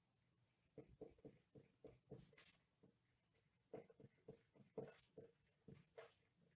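Faint scratching and tapping of handwriting, short irregular strokes of a pen or marker tip on a writing surface, starting about a second in.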